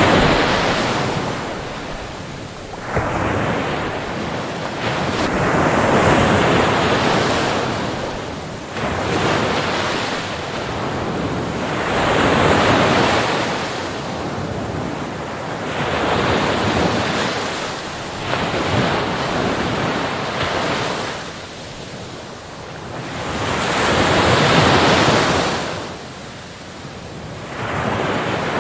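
Ocean surf: waves breaking and washing up the beach in repeated swells of rushing water, one every three to five seconds.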